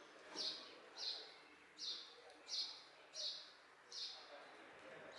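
A bird repeating one short, high call about seven times, evenly spaced at roughly one and a half calls a second.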